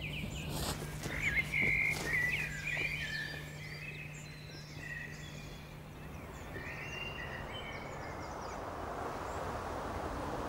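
Several small birds chirping and singing in short quick phrases, fading out in the second half while a steady hiss builds up.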